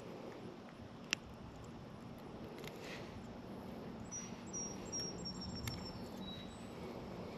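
Faint high, thin bird chirps around the middle, over a quiet steady background hum, with one sharp click about a second in.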